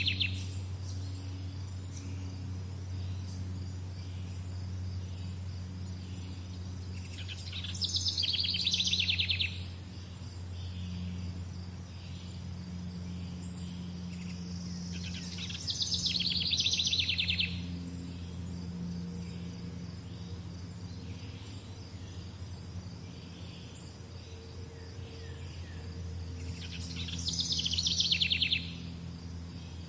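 A songbird repeating a short, rapid trilled phrase about every eight seconds, each lasting about two seconds, over a steady chorus of insects and a low steady hum.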